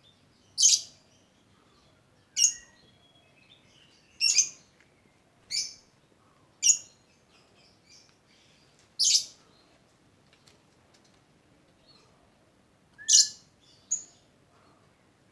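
Lovebird giving short, shrill chirps, about eight in all, one every second or two, with a pause of about four seconds before the last two.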